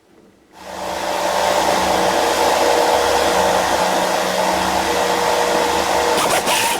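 A power tool's motor switches on about half a second in and runs at a steady speed with a loud rushing whir.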